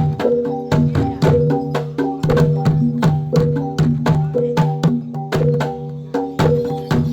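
Javanese gamelan playing jathilan dance accompaniment: sharp drum and struck-metal beats in a steady quick rhythm over ringing, sustained gong-chime tones.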